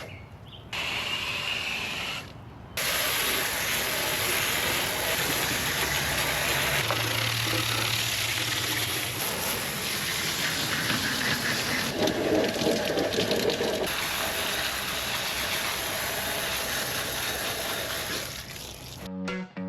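Water from a hose spraying steadily into an air-conditioner condenser coil, a continuous hiss that cuts in about three seconds in after a few brief stops and runs until music takes over near the end.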